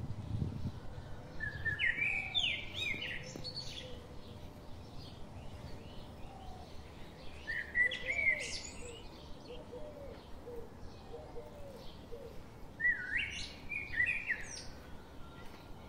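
Birds singing and calling in three loud phrases of quick rising chirps, about two seconds in, about eight seconds in and about thirteen seconds in, with fainter lower calls between them.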